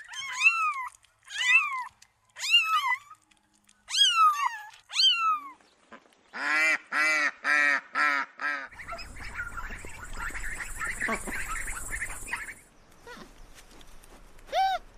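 A kitten meowing again and again, about six meows over the first five seconds. Then mallard ducks quacking in a quick run of about six quacks, followed by water and ambient noise with faint chatter and a low hum. A short high animal call comes near the end.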